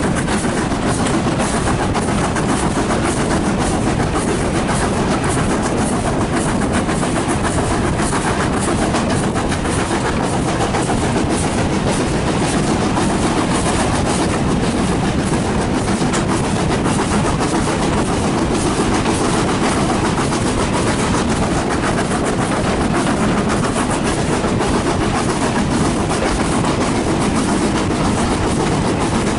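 A train running along the track: a steady rumble with a dense scatter of small clicks from the wheels and rails.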